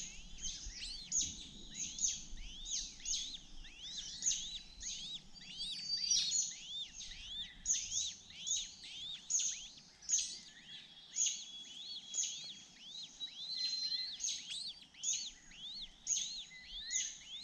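Birds chirping continuously: high, short arching notes repeated about twice a second, several calls overlapping.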